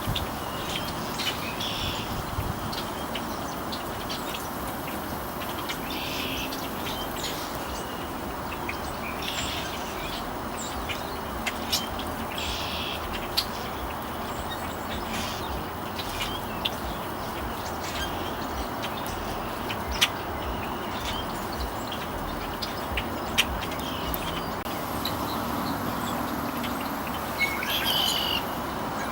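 Birds calling with short, scattered chirps over a steady outdoor background hiss, with a few sharp clicks.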